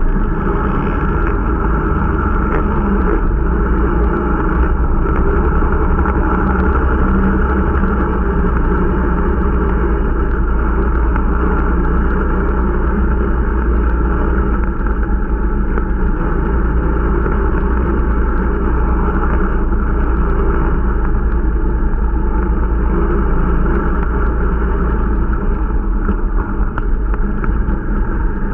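Irbis Dingo T125 snowmobile running steadily under way: its small single-cylinder engine and track drone at a constant speed, with no revving up or down. The machine is still being run in.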